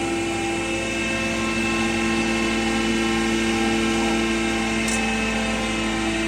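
Animal-feed pulverizer (grinding mill) running steadily, a constant machine hum with several steady tones over a rushing noise.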